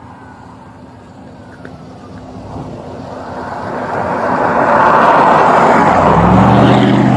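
Road vehicle driving at speed: tyre and wind noise that swells over the first few seconds and stays loud, with a steady low engine hum coming in near the end.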